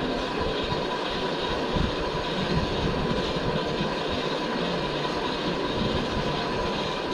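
Car on the move: a steady rumble of engine and road noise, with a faint steady high tone running through it.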